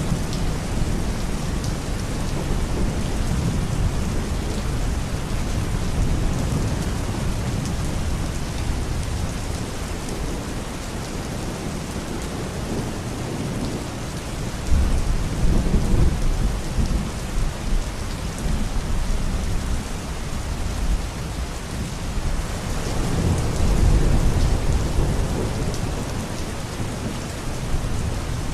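Steady rain falling, with two rolls of low thunder rumbling: one about halfway through and one near the end.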